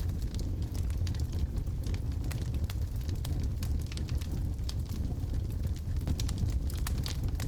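Wood logs burning in a fireplace, a steady low rumble of flame under frequent sharp crackles and pops, which come thickest in the second half.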